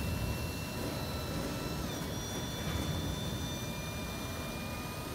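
Freight train rolling slowly with a low rumble, and faint steady high squeals from the wheels or brakes that shift pitch about two seconds in.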